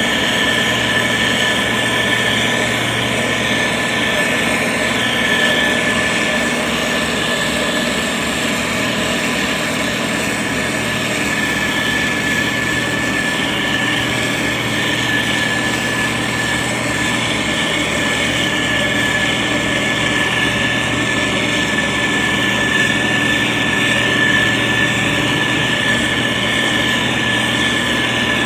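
SANY STG190C-8S motor grader's diesel engine running steadily under load, with a constant high whine over the engine noise.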